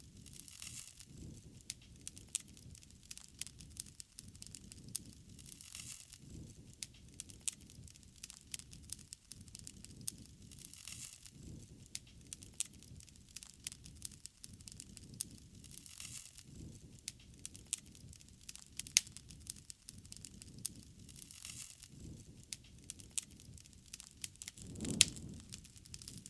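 Wood fire crackling, with frequent sharp pops over a soft low rush from the flames that swells every few seconds and is strongest near the end.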